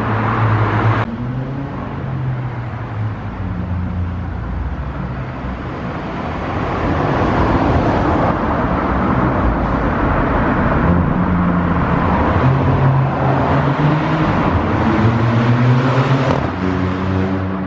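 Seat Ibiza FR's engine pulling hard through a tunnel, its note climbing and then dropping several times as the DSG gearbox shifts.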